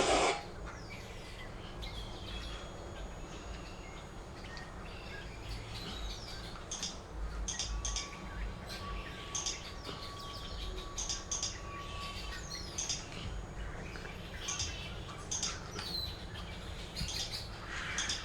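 Computer mouse clicked rapidly over and over in short clusters of two or three clicks (spam clicking), with a few faint short chirps among them.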